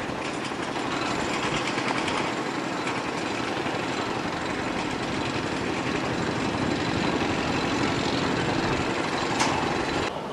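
Steady engine and machinery noise with no clear rhythm. There is one brief sharp sound about nine and a half seconds in, and the sound drops off suddenly about ten seconds in.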